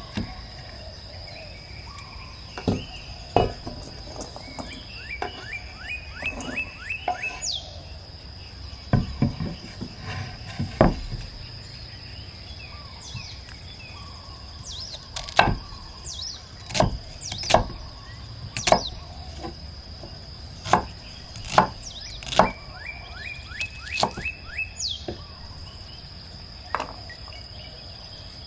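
Wood being chopped for a campfire: irregular sharp strikes, some close together, then pauses of a few seconds.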